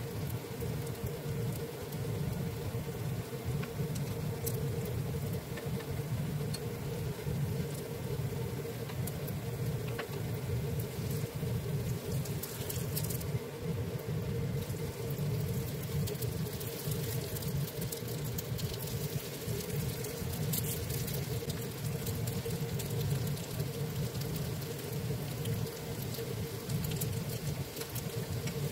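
Zucchini pancake batter frying in oil in a pan: a steady crackling sizzle, with a constant low hum underneath.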